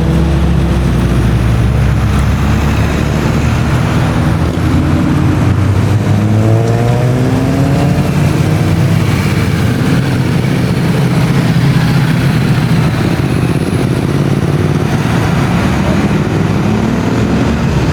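Classic car engines running, with revs rising in pitch a few times about six seconds in and again near the end.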